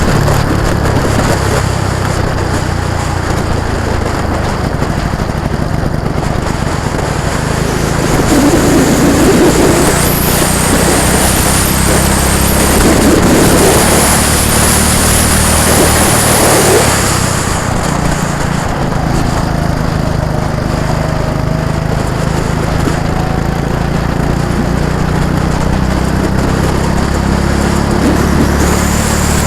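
Go-kart engines running on a track as karts pass, swelling louder for several seconds near the middle.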